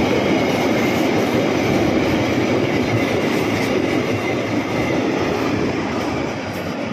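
Cement tank wagons of a freight train rolling past close by: steady rumble and clatter of steel wheels on the rails, with a faint high whine, getting a little quieter near the end.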